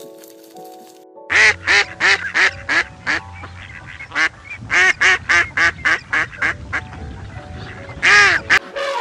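A duck quacking, a fast run of short loud quacks starting about a second in, with one longer quack near the end, over soft background music.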